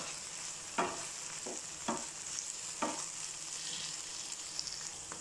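Chopped onions, green chillies and curry leaves frying in oil in a nonstick pan, stirred with a wooden spatula: a steady sizzle with about five spatula strokes against the pan in the first three seconds, then sizzle alone. The ginger-garlic paste is being sautéed until its raw smell goes.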